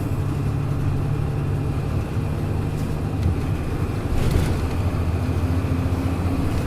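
Hino Blue Ribbon city bus's diesel engine and drivetrain running under way, heard from inside the cabin. The engine note changes about three seconds in, and a brief hiss comes a second later.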